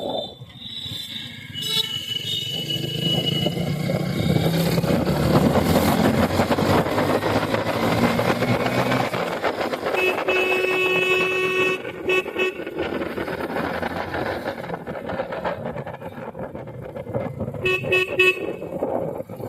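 Vehicle horns honking over the steady running noise of a ride through road traffic. A honk comes about two seconds in, a longer honk broken into several beeps about ten seconds in, and short beeps near the end.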